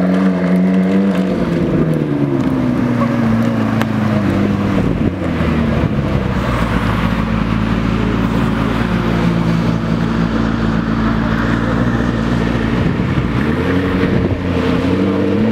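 McLaren MP4-12C's 3.8-litre twin-turbo V8 running. Its pitch drops after the first second or two, holds steady for about ten seconds, then climbs again near the end.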